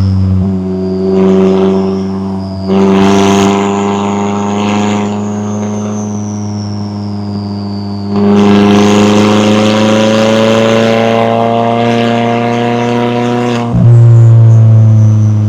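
McLaren 570S twin-turbo V8 exhaust while driving, the engine's pitch climbing slowly. The sound gets louder in steps about three and eight seconds in, with a sudden change and a deeper, louder note near the end.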